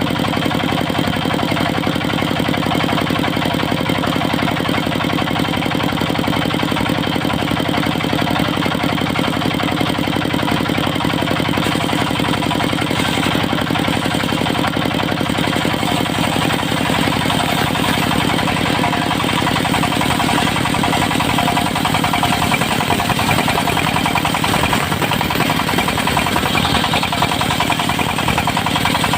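Diesel engine of a portable circular-saw sawmill running steadily with a fast, even, knocking beat.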